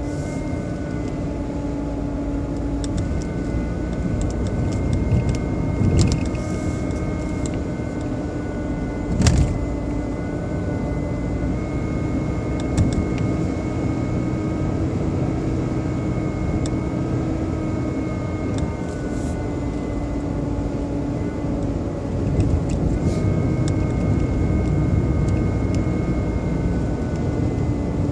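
BMW 120i (E87) engine running with a steady motor-like whine of several held tones over the engine's rumble, which the owner hears from behind the air cleaner box and which an engine oil change has not cured. A few short sharp clicks sound over it, the loudest about nine seconds in.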